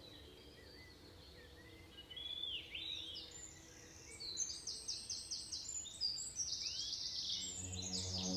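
Rainforest birds calling: upward-sweeping chirps, then a run of rapid repeated high notes and a longer buzzy trill. Soft sustained music fades in near the end.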